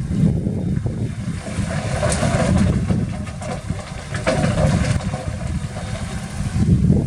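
Diesel engine of heavy earth-moving machinery running under load, swelling and easing as the machine works.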